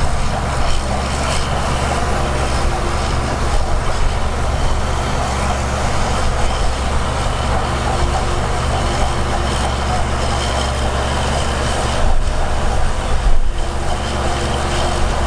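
Heavy diesel earthmoving machinery running steadily with a low engine hum under a broad noisy clatter, with a short break and jolt a little over twelve seconds in.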